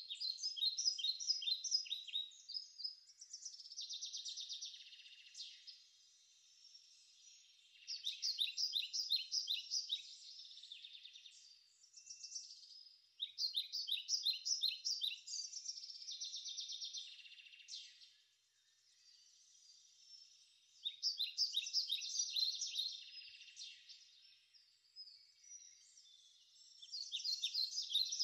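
Birdsong: rapid series of high-pitched chirps and trills in phrases of two or three seconds, repeating after short pauses.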